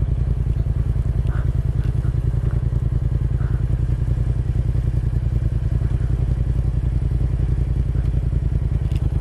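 Motorcycle engine running at a steady speed under way, with an even, fast pulse that holds the same pitch throughout.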